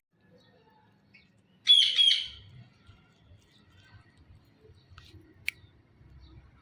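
Blue Indian ringneck parakeet giving one short call of about three quick notes, about two seconds in. A single sharp click comes near the end.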